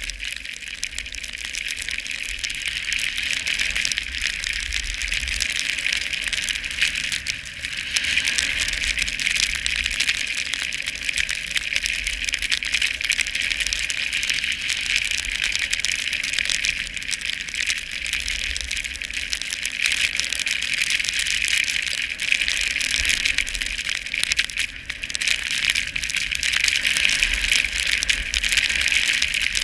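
Skis or a snowboard hissing and scraping over snow on a downhill run: a dense, rapidly flickering hiss that swells and eases with the turns. Wind buffets the microphone with a low rumble throughout.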